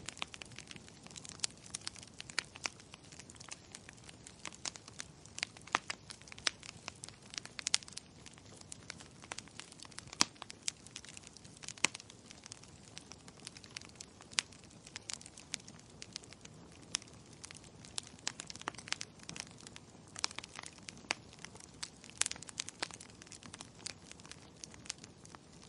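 Wood fire crackling in a fireplace: a steady low hiss with irregular sharp pops and snaps, several a second, some much louder than the rest.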